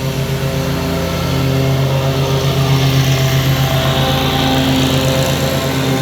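A motor running steadily, a low hum with a rapid even pulse, under a constant hiss.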